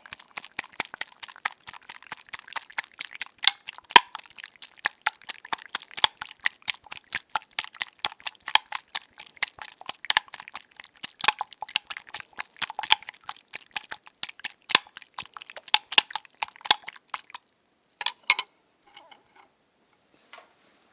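Eggs being beaten in a bowl, the utensil clicking fast and unevenly against the bowl's side. It stops about three-quarters of the way through, leaving a few last taps.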